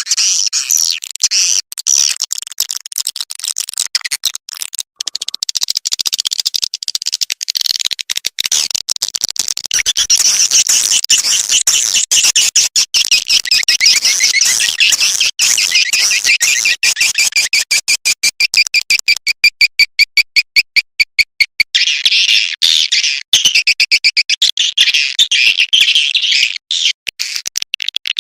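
Recorded swiftlet calls used as a lure sound for swiftlet nesting houses: a dense, loud stream of rapid high twittering chirps. Midway comes a run of evenly repeated chirps, about six a second, before the busy twittering returns.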